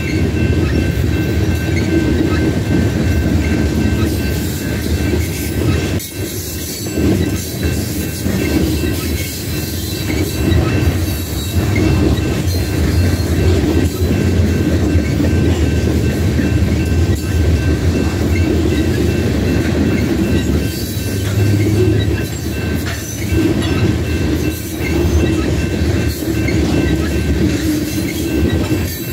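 Covered hopper cars of a grain train rolling past a grade crossing: a steady low rumble with wheels clacking over the rail joints. Faint steady high tones from the crossing bell ring throughout.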